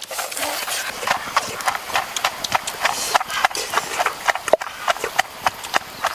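Loud, rapid wet chewing and lip-smacking while eating grilled fish, an irregular stream of mouth clicks and smacks with a few brief vocal noises.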